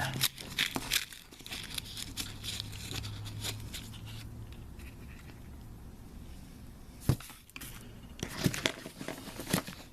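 Paper and cardboard firework packaging crinkling and rustling as it is handled and opened by hand, with a sharp click about seven seconds in and a few more clicks near the end.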